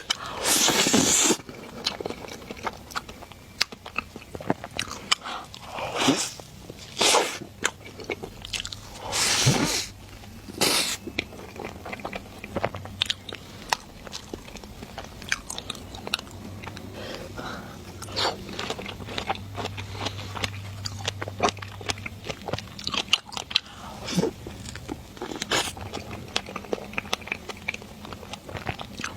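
Close-miked mukbang eating: a person biting and chewing food, with many small mouth clicks and several louder bites in the first half.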